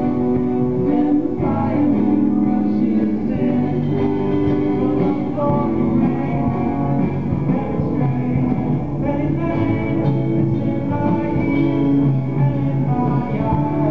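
A group of buskers playing live music, with held pitched notes over a steady bass line.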